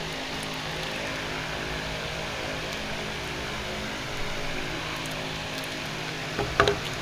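Steady background hiss and hum, with a short cluster of sharp clicks or knocks near the end.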